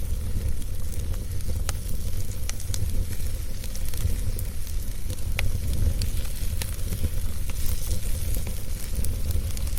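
Wood fire burning steadily with a low rumble, crackling and popping at irregular moments throughout.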